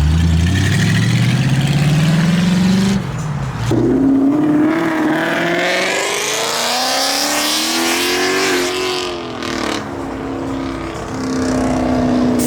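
A car engine accelerating hard, its pitch climbing for about three seconds, dropping at a gear change, then climbing again before easing off near the end.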